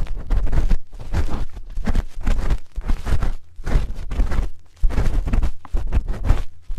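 A spoon scraping and rubbing against an ear-shaped microphone, close and loud: irregular bursts of scratching with dull bumps, with short breaks about three and a half and four and a half seconds in.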